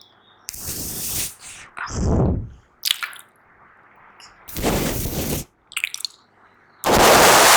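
Close-miked puffy-cheek mouth sounds: air puffed into the cheeks and pushed out in wet, squishy blowing bursts, with a couple of short pops between them. About four such bursts, the last and loudest near the end.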